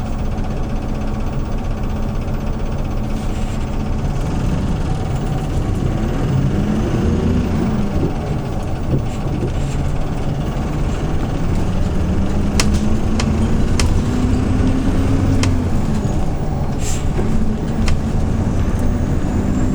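Hyundai New Super Aero City city bus's CNG engine heard from inside the bus, running steadily at first and then rising and falling in pitch twice as the bus speeds up and eases off. Several sharp clicks come in the second half.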